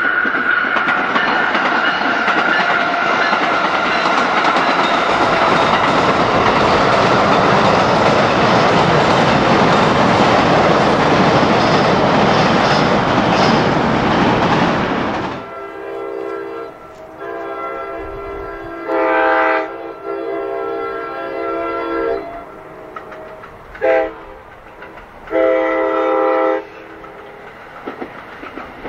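A train passing close by, with loud rolling rumble and clatter of wheels on rail, cuts off abruptly about halfway through. Then a multi-tone locomotive horn sounds a series of blasts, the last three strong ones long, short, long.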